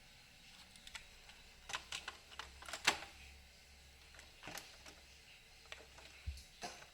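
A run of light clicks and knocks from a cassette tape and its plastic case being handled and loaded into a deck, thickest around the middle with one sharper click, then a low thump near the end.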